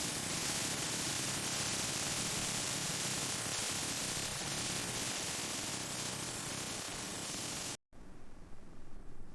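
Steady hiss like static that cuts off abruptly near the end, leaving fainter, uneven background noise.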